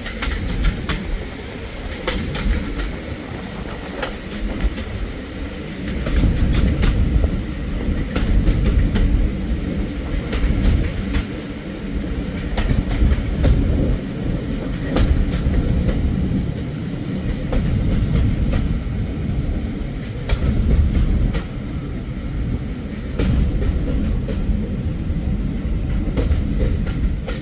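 Heritage railway carriage running along the line, heard from on board: a steady low rumble that swells and eases, with irregular clicks of the wheels over the rail joints.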